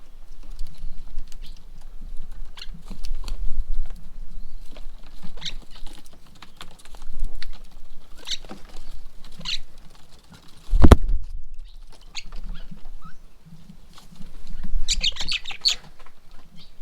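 Birds at a bird table: scattered light taps and clicks, brief high chirps, and a cluster of chirps near the end. There is one loud knock about eleven seconds in, over a low rumble.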